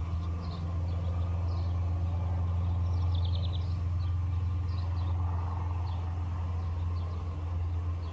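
Small birds chirping in short, scattered calls, with a quick trill about three seconds in, over a low, steady rumble.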